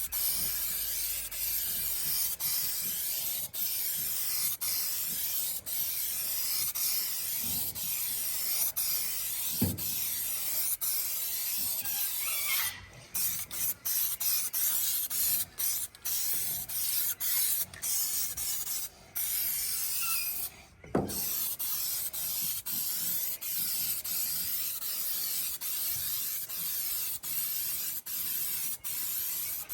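Spray paint hissing steadily from a spray nozzle, with a few brief breaks where the spraying stops and restarts in the middle of the stretch.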